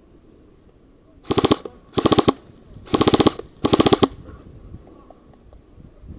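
Airsoft gun firing four short full-auto bursts of rapid, evenly spaced shots, each burst under half a second, the last two a little longer.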